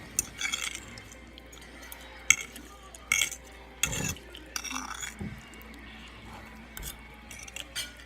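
Cutlery clinking and knocking against dishes during a meal: a dozen or so sharp, irregular clinks, the loudest a little over two seconds in.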